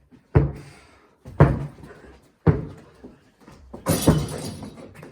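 A ball hitting hard three times about a second apart, then a louder rattling crash about four seconds in as a shot strikes the hoop in an indoor shooting game.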